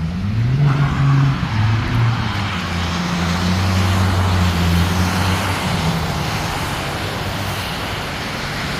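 Ford Mustang's V6 engine revving up hard in the first second and holding high revs for several seconds, then easing off to a lower note. Alongside it runs a steady hiss of tyres spinning and sliding on wet pavement, with water spray.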